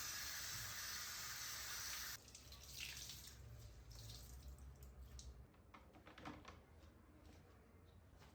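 Kitchen tap running in a steady stream, shut off suddenly about two seconds in, then faint small clicks and knocks of things being handled.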